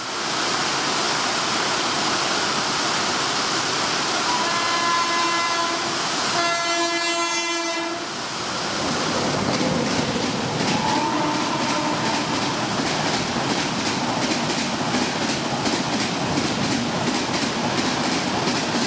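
Indian Railways WAP-7 electric locomotive approaching through the steady hiss of heavy monsoon rain, sounding its horn in two long blasts; the pitch drops at the end of the second blast as it passes. The train then runs through at speed, its wheels giving a rapid, even clickety-clack over the rail joints as the coaches go by.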